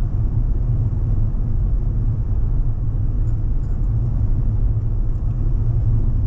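Steady low rumble of a truck cruising at highway speed, heard from inside the cab: tyre, road and engine noise.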